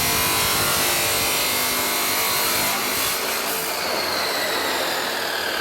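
Angle grinder cutting into a steel exhaust pipe, a loud, harsh grinding hiss. About four seconds in, the disc comes off the metal and its whine falls in pitch as it spins down.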